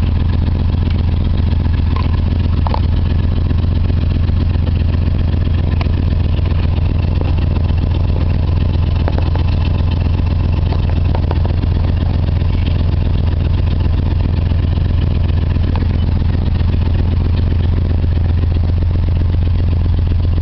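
1966 Ford Galaxie 500's 390 V8 idling steadily.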